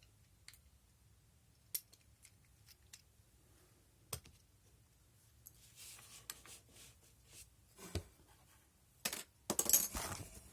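Small clicks and taps of 1/64 scale die-cast toy trucks being handled, their removable tops and parts knocking lightly, with a louder burst of clattering handling noise near the end.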